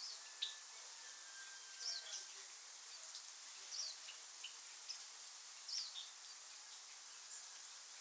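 Forest ambience: a steady high insect-like hiss, with a small bird giving short, high, falling chirps about every two seconds.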